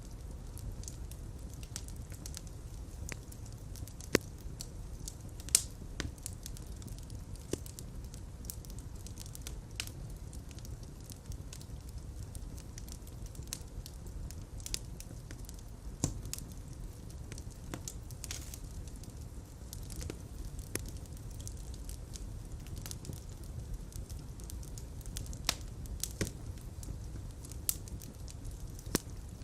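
Fireplace fire burning with a steady low rumble and irregular sharp crackles and pops, the loudest two about four and five and a half seconds in.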